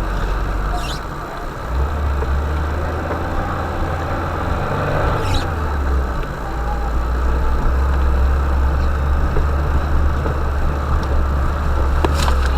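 UAZ Bukhanka van's engine running as it drives a rough forest track, a steady low drone that strengthens about two seconds in. A few sharp knocks and rattles come through, about three times.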